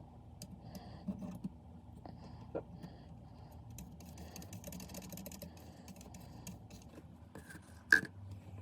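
Scattered small clicks and taps of handling, with one sharp, louder click near the end, over a low steady hum.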